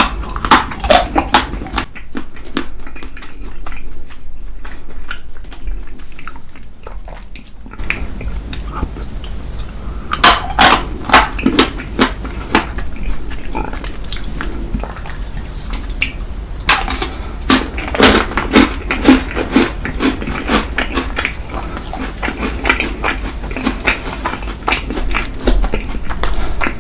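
Cutlery clinking and scraping against dishes in close-up eating of ice cream cake, with many sharp clicks in clusters and some chewing, over a steady low hum.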